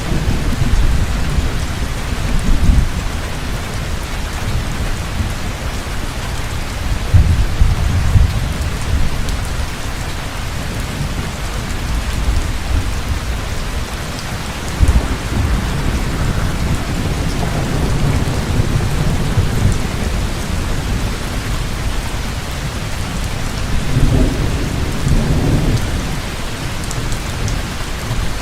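Heavy rain falling steadily, with low rolling thunder rumbling on and off, swelling several times.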